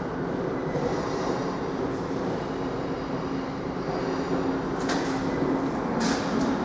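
A train running at a station: a steady rumble with a low hum, joined by two brief sharp high-pitched sounds about five and six seconds in.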